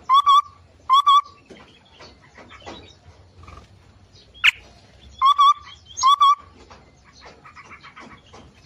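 Aviary birds calling: a loud, short, wavering call given four times in two pairs, over fainter chirping from other birds, with one sharp click about four and a half seconds in.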